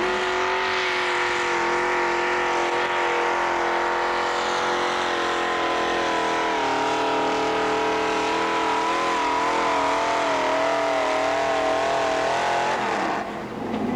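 Open-modified pulling tractor's engine running hard at high revs under load, a steady multi-tone drone whose pitch wavers through the second half, then cutting off suddenly near the end.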